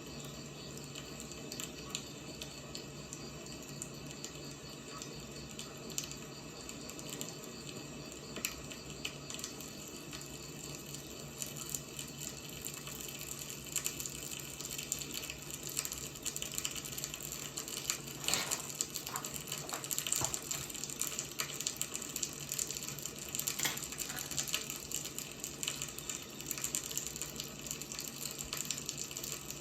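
Burning firewood crackling, with irregular snaps and pops that come thicker and louder in the second half.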